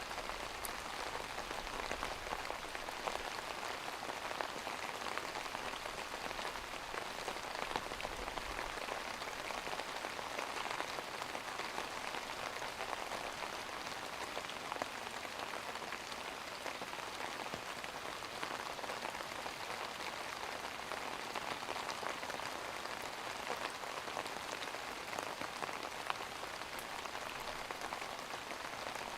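Steady rain falling, an even patter with scattered louder drops.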